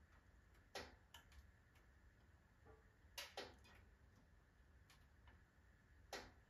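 Firewood burning in a wood-burning stove: faint, irregular crackling with a few sharper pops, about a second in, twice around three seconds and near the end.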